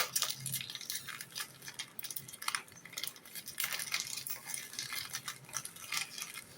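Plastic snack packaging crinkling and crackling in the hands, in many short irregular crackles, as the caramel biscuit's wrapper is handled and opened.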